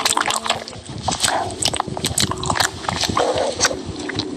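Close-miked eating sounds: wet mouth smacking and clicking, irregular and several times a second, from eating melting ice cream.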